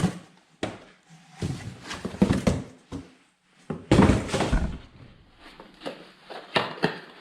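Irregular knocks, clunks and clattering of tools and parts being handled and set down, with the heaviest clunk about four seconds in.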